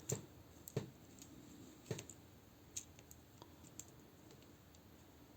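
Plastic parts of a toy figure clicking and knocking as they are handled and fitted together. A handful of sharp clicks come at irregular intervals, the louder ones in the first two seconds.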